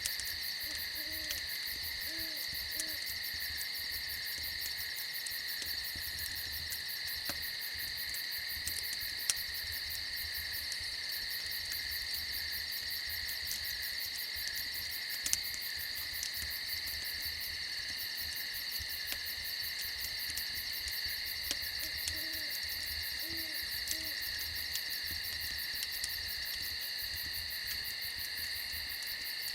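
A steady, high chorus of crickets with an owl hooting low in two short series of three or four hoots, one near the start and one past the twenty-second mark. A few sharp, isolated crackles of a wood fire.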